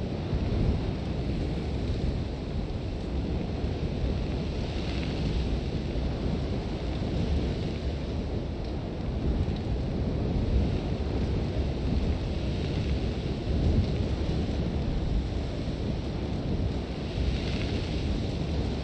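Sandstorm wind, a steady low rumble with gusts of hissing blown sand that swell about five seconds in and again near the end.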